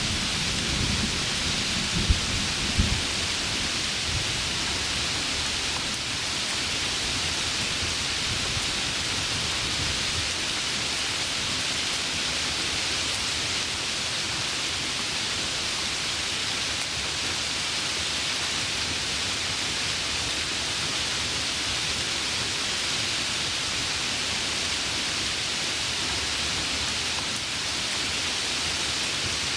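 Heavy rain falling steadily. A low thunder rumble with two sharp cracks comes in the first few seconds and dies away over about ten seconds.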